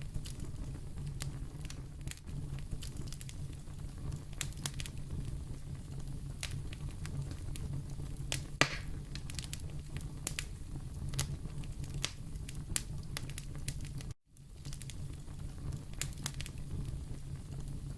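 Wood fire burning in a fireplace: a steady low rumble of flames with frequent sharp crackles, and one loud pop about halfway through. The sound drops out for a split second about three-quarters of the way in.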